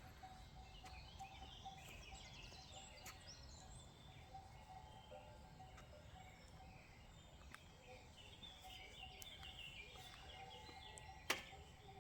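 Quiet outdoor ambience with faint birds chirping over a low, even background rumble. There is one sharp click near the end.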